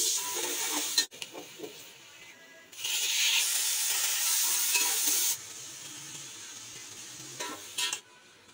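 Oil sizzling as sliced onions drop into a hot pot, then, about three seconds in, a louder sizzle as raw meat goes into the oil with the onions, dying down to a softer frying hiss.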